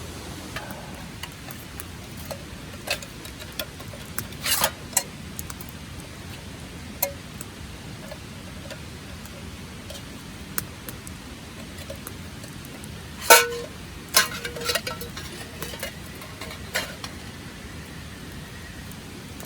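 Scattered clicks and knocks of camping gear being handled, with one louder clack that rings briefly about 13 seconds in and a few more knocks after it, over a steady background hiss.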